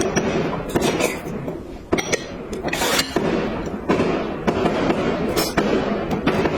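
Close-miked eating sounds: chewing and mouth noises made up of many quick, sharp clicks and crackles.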